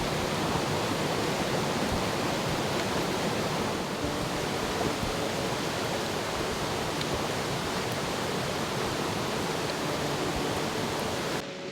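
Heavy rain falling as a steady, dense hiss. Just before the end it cuts off suddenly to a quieter, duller patter of rain.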